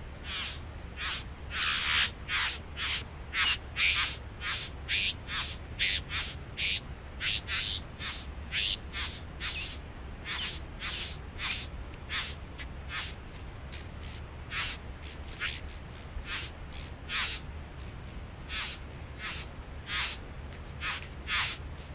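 Satin bowerbird giving a long run of short, harsh calls, about two a second, some louder than others.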